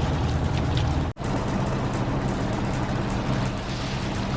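Sailboat's auxiliary engine running steadily, a low hum under a steady hiss. The sound cuts out for an instant about a second in and comes back at a slightly different pitch.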